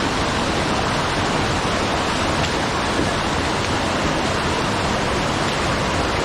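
Steady, loud rush of a waterfall: an unbroken wash of falling water.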